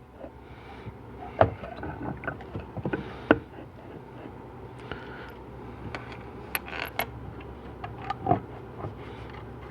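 Irregular metallic clicks and knocks as GM 4L80E transmission pump parts are handled and fitted together, the loudest knocks about a second and a half in, at about three seconds and near the end, over a steady low hum.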